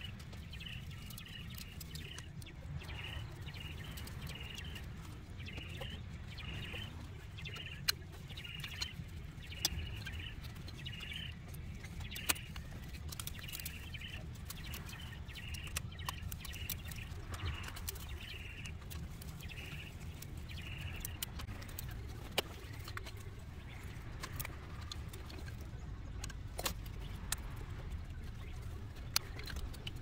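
A bird chirping over and over in short calls, a little under two a second, stopping about two-thirds of the way through, over a low steady background rumble. Occasional sharp clicks of hand tools on engine parts.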